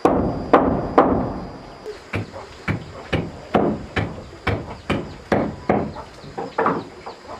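A hand tool striking wood in a steady run of blows, about two a second, the first few the hardest.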